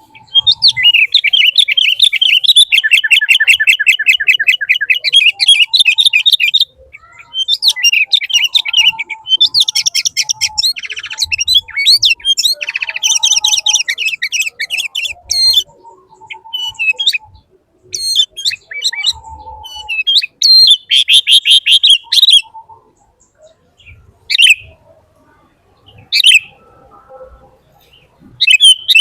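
Bird song, loud and close: long runs of fast, high trills and chirps broken by short pauses, thinning to a few single chirps near the end.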